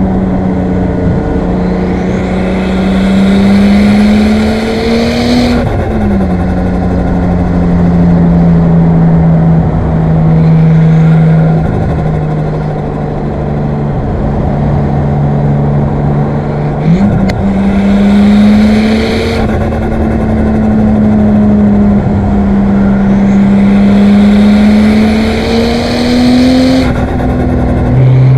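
Nissan Skyline R34's single-turbo RB25DET straight-six running hard through the gears. Its pitch creeps up and then drops suddenly about six seconds in, sags slowly, jumps back up past the middle, and drops again near the end. A hiss rides on top while it pulls and cuts out whenever the pitch drops.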